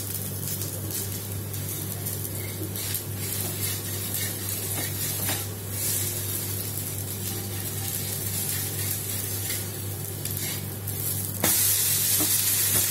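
Rice-flour dosa sizzling in oil on a hot dosa pan, with a few light spatula scrapes. About eleven and a half seconds in, the sizzle suddenly grows louder and brighter as the dosa is turned over onto the hot pan.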